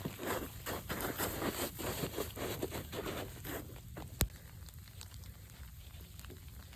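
Snow and ice crunching in a quick run of short crunches for about four seconds, then a single sharp click and fainter crunching.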